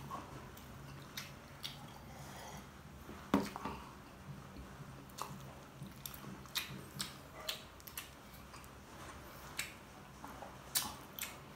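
Close-up eating of battered dynamite shrimp in sauce: wet mouth smacks and chewing, with scattered sharp clicks and one louder knock about three seconds in.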